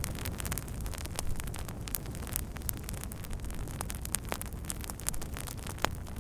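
Wood fire crackling: frequent irregular pops and snaps over a steady low rumble of burning.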